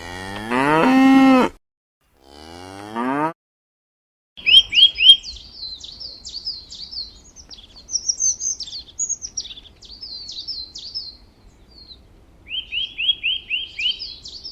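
A cow mooing twice, one long call that rises and levels off and a shorter second call, then a small songbird singing rapid runs of high chirps and trills.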